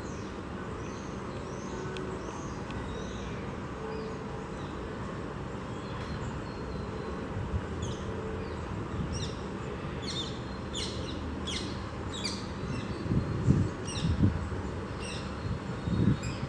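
Birds chirping, with a run of short, high, downward-sweeping calls repeated about twice a second through the middle, over a steady background rumble. A few low thumps near the end.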